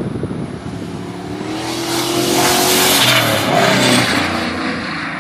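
Boosted Ford 5.4-litre SOHC V8 passing at speed under throttle: the engine note builds to a peak about two to three seconds in, then drops in pitch and fades as the vehicle goes by.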